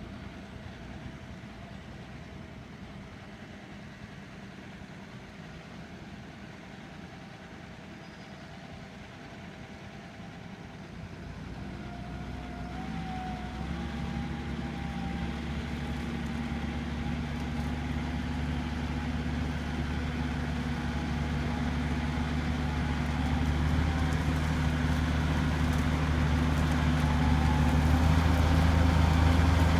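John Deere 6140R tractor's diesel engine working under load pulling a plough. It is faint for the first ten seconds or so, then grows steadily louder as the tractor approaches.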